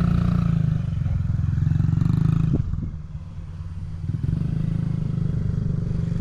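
Motorcycle engine running at low speed. The throttle closes for a second or so midway, then opens again.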